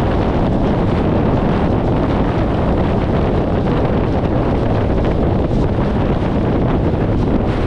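Steady wind buffeting an externally mounted camera microphone on a car at highway speed, mixed with road and tyre noise and the low running of a 1994 VW Gol's 1.6 L CHT engine.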